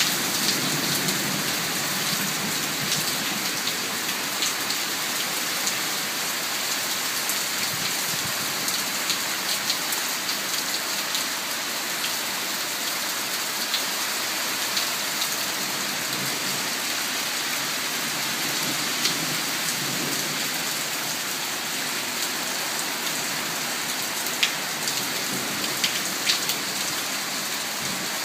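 Heavy thunderstorm rain falling steadily, with many sharp drop impacts. Low thunder rumbles come in near the start and again about two-thirds of the way through.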